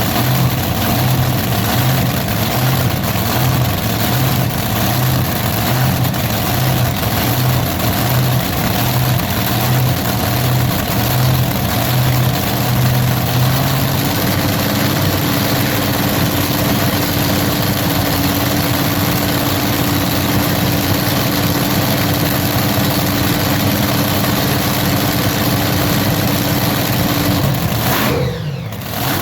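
Loud engine running steadily under a dense mechanical noise. For the first half a low tone pulses at a little over once a second; about halfway in it gives way to a steady hum.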